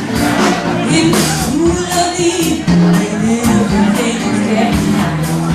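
Live band music with a steady beat, about two drum strokes a second, over bass and held chords.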